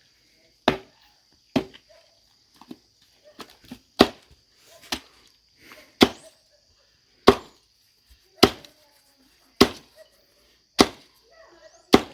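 Wood being chopped with steady, heavy blows, about ten in all, spaced roughly a second apart, with a few lighter knocks between the early ones.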